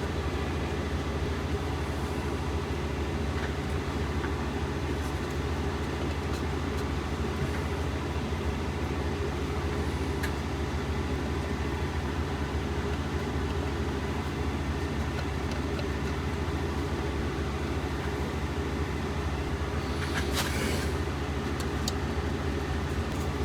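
Steady low mechanical hum with a few faint small clicks, and a brief rustle about twenty seconds in.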